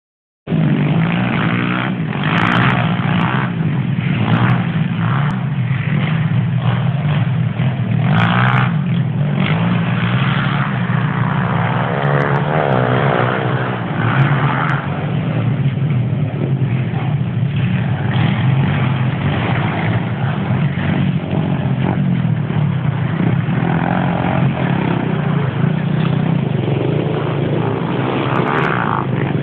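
Motocross bike engines running and revving, swelling and fading as the bikes accelerate and back off, over a steady low engine hum.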